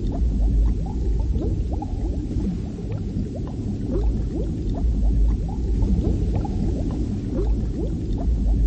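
Water bubbling and gurgling: many small rising pops, several a second, over a steady low rumble.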